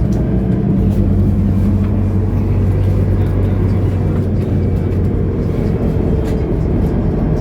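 Mercedes-Benz O530 Citaro Facelift Ü bus's diesel engine running at a steady pitch.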